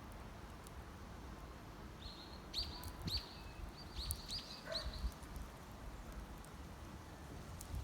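A bird chirping: a quick run of short, high calls starting about two seconds in and lasting some three seconds. Faint occasional crackles from a wood campfire sound underneath.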